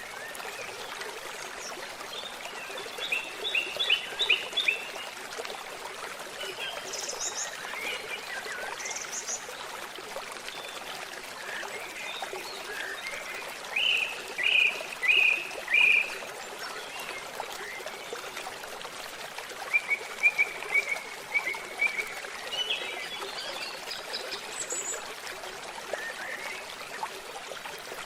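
Stream babbling steadily, with songbirds calling over it in short phrases of repeated chirps; the loudest is a run of four notes about halfway through.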